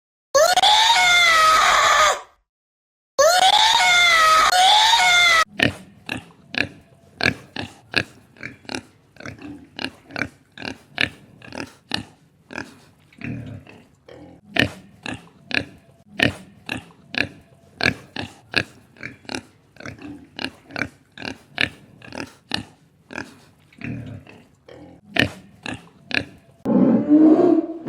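Animal calls: two loud cries with sliding pitch, then a long run of short grunts, about two a second. A louder, lower call starts near the end.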